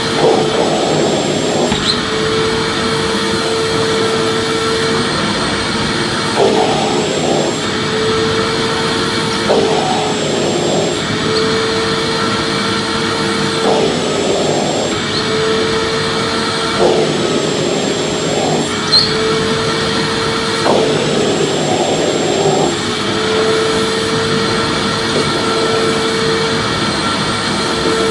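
Vacuum cleaner running steadily: a continuous rush of air with a steady mid-pitched hum. Every few seconds the hum breaks off for about a second into a rougher rush.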